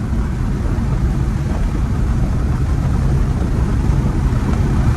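Supercharged Camaro ZL1 1LE V8 running under way at speed, a steady low drone that grows slightly louder toward the end, heard from inside the car.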